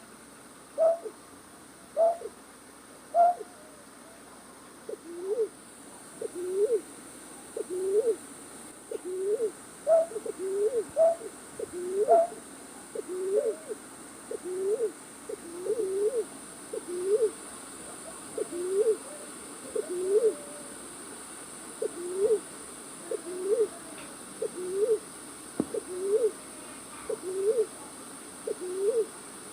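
Recorded night-bird call played as a trapping lure: short upward-sliding notes repeated about once a second, some in pairs. A higher-pitched series runs through the first dozen seconds, then a lower-pitched series carries on.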